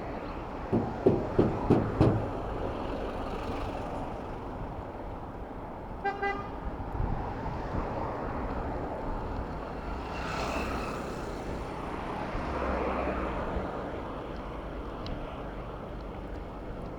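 City street traffic with vehicle horns: a rapid run of about five loud honks about a second in, and a short horn toot around six seconds in, over a steady rumble of passing vehicles.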